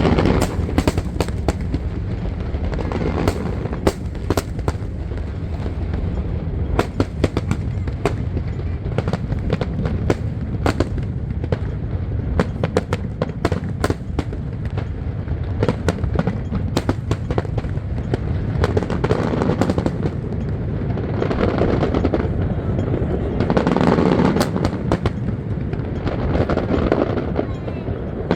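Fireworks display: a rapid run of sharp cracks and bangs over a steady low rumble of aerial shells bursting, swelling in loudness a few times.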